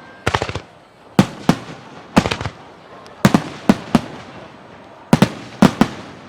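Aerial firework shells bursting in quick succession: about a dozen loud, sharp bangs, often two or three close together, each trailing off briefly before the next.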